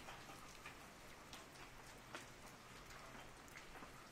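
Rain falling on an umbrella: scattered single drops tap one at a time, a few louder than the rest, over a faint steady hiss of rain.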